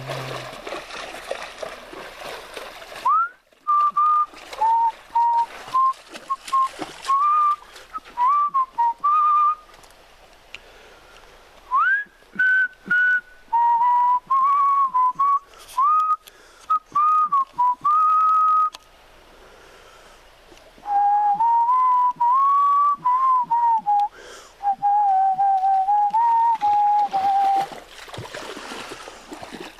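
A person whistling a meandering, wobbly tune in short phrases with brief pauses: the self-described bad whistling. The first three seconds hold a steady rushing noise that cuts off suddenly.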